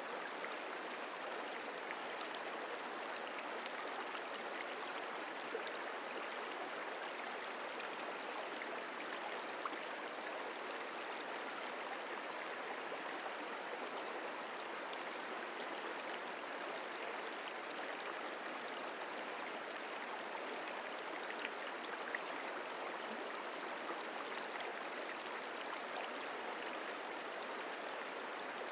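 River water rushing and burbling steadily over rocks, with a few faint splashes and ticks in the flow.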